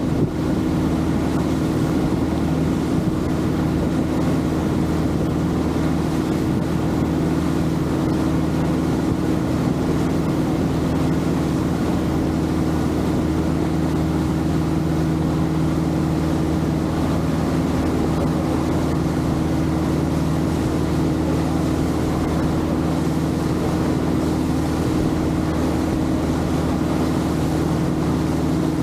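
Longtail boat engine running steadily at an even speed, a constant drone with water and wind noise over it.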